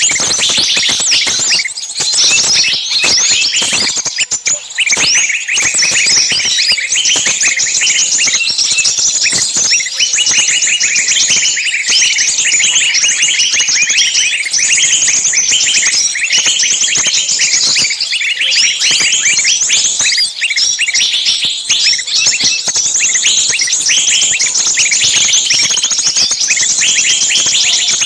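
A dense chorus of many small birds chirping at once, without a break.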